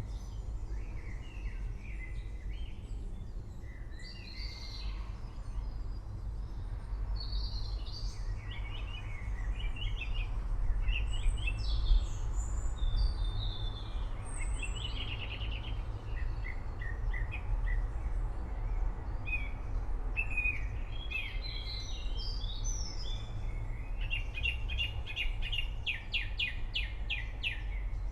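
Several forest birds chirping and warbling, with a rapid trill of quick even notes near the end, over a steady low rumble.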